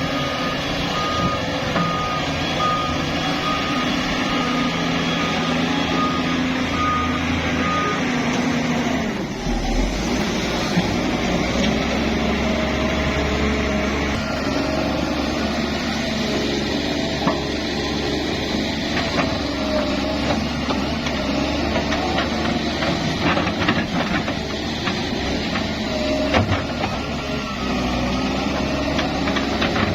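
Reversing alarm on heavy construction machinery beeping about twice a second for the first eight seconds, then stopping. Under it a heavy diesel engine runs, its note shifting at about nine seconds in.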